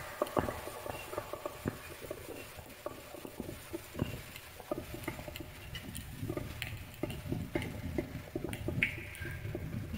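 Wood fire burning in a fireplace: irregular crackles and snaps of burning wood over the low rumble of the flames, with one louder pop near the end.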